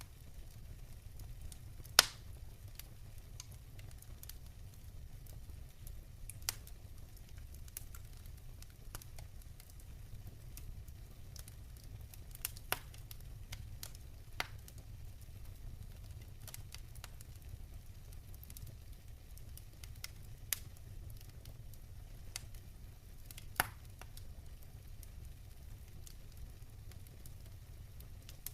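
Wood fire in a fireplace crackling, with a few sharp pops several seconds apart; the loudest comes about two seconds in. Under it run a steady low rumble and a faint patter of rain.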